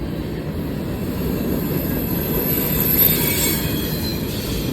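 Freight train cars rolling past at close range, a steady rumble of wheels on rail, with a thin high-pitched wheel squeal rising about two and a half seconds in and fading after about a second.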